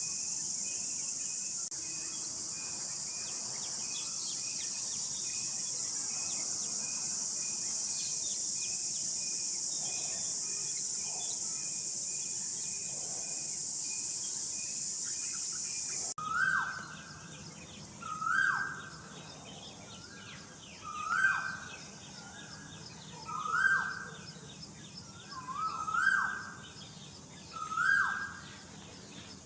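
A steady, high-pitched insect chorus with a short note repeating a few times a second. Then, after an abrupt change, a bird gives seven loud calls at even intervals, each holding its pitch briefly and then sliding down.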